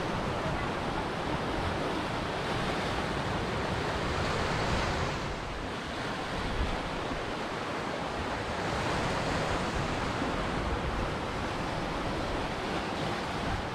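Ocean surf washing onto a beach, a steady rush of breaking waves that swells about four seconds in and again near the middle, with some wind on the microphone.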